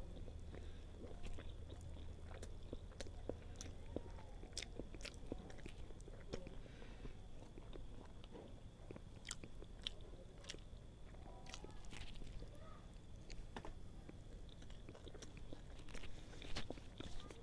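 Close-up chewing and biting of a soft steamed bun (Thai Po), with many small wet mouth clicks and smacks scattered through the eating.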